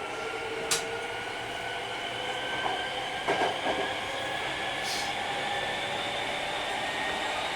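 Hankyu 3300 series electric train running, heard from on board: its traction motors whine in several steady tones that rise slowly in pitch, over the rumble of the running gear. There are a couple of sharp clicks and a short knock about three seconds in.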